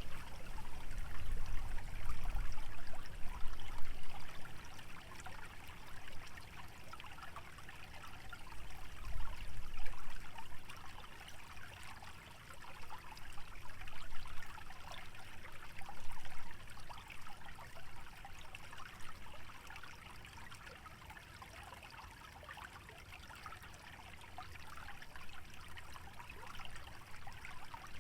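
Shallow stream trickling and babbling steadily through wetland, with gusts of wind that surge in the first few seconds and again around ten seconds in.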